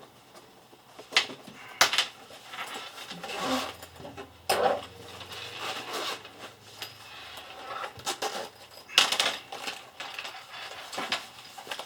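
Handling noises from a first aid kit being opened and its contents pulled out: a string of sharp clicks, knocks and rustles.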